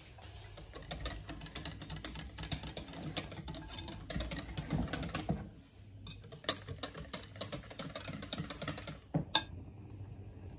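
A utensil clicking and tapping rapidly against a bowl in two runs, with a short pause about halfway and one sharper knock near the end, typical of whisking batter.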